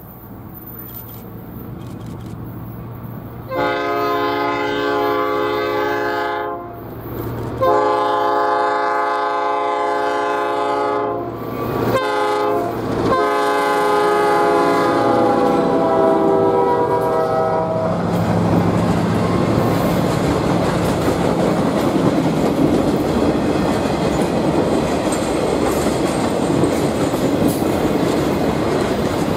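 GP11 diesel locomotive approaching with its engine running low and sounding three long horn blasts, the last one held longest and dropping in pitch as it passes. Its train of loaded sugarcane cars then rolls by, wheels running steadily on the rails.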